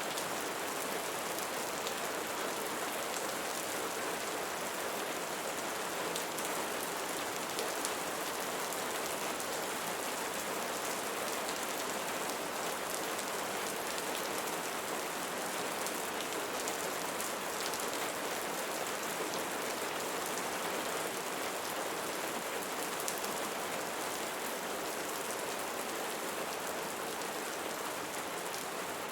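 Steady rain falling on a surface, an even hiss with fine scattered patter of individual drops.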